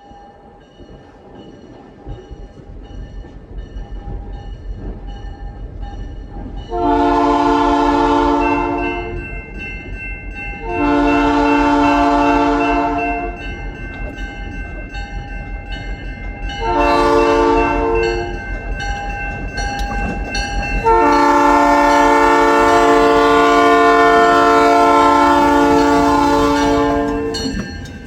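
Freight train's multi-chime horn sounding the grade-crossing signal of two long blasts, a short one and a final long one, over the rumble of an approaching diesel locomotive.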